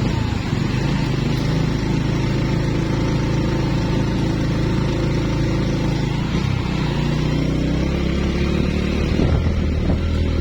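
A road vehicle's engine running steadily while driving, with noise over it. The engine note shifts about six seconds in.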